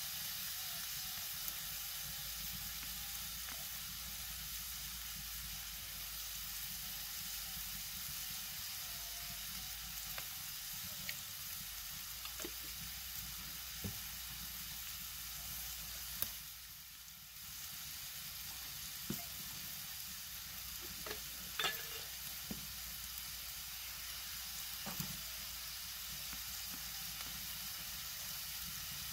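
Chopped tomatoes and onions sizzling steadily in a large wok-like pan over a wood fire, with a few light clicks of a utensil against the pan. The sizzle dips briefly about halfway.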